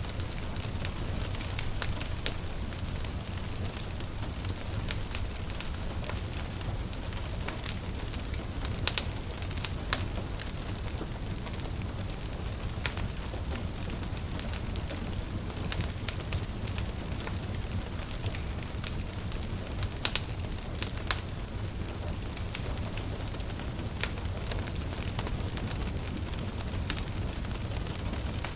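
A wood fire crackling, with irregular sharp pops and snaps, a few louder than the rest, over a steady low rumble of flames. Gentle rain patters in the background.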